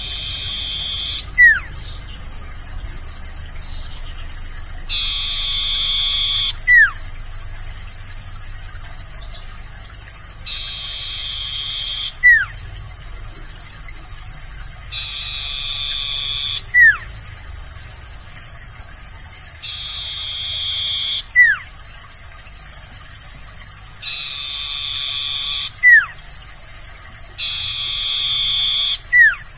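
Common iora (sirtu/cipoh) singing its song over and over, about every four and a half seconds. Each phrase is a high, buzzy trilled note that swells for about a second and a half, then ends in a short, sharp falling note.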